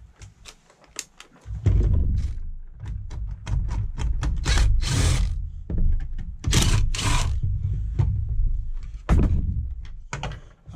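Knocks and scrapes of the housing and parts of a Ryobi ONE+ cordless planer being handled and taken apart to get at its broken drive belt, over a low handling rumble, with a few sharper scrapes in the middle and a knock near the end.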